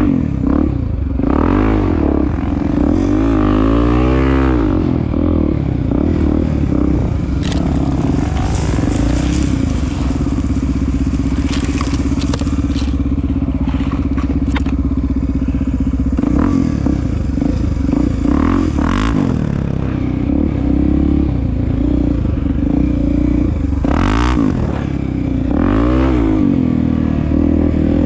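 Honda Tornado's single-cylinder four-stroke engine running under way, its pitch rising and falling with the throttle a few times, with scattered knocks and rattles from the bike.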